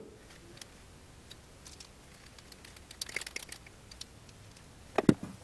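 Hand crimper working a wire lug onto a battery cable: scattered soft ticks, a quick run of small clicks about three seconds in, and one sharp knock about five seconds in.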